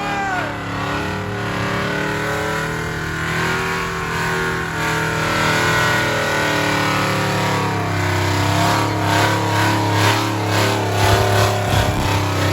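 Truck engines running and revving, their pitch rising and falling, with quicker pulsing revs in the second half.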